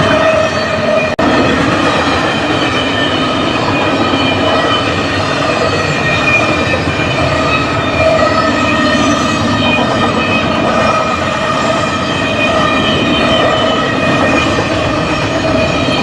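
Freight train rolling past close by: a steady, loud rumble of wheels on rail with wavering metallic ringing. There is a brief dropout about a second in.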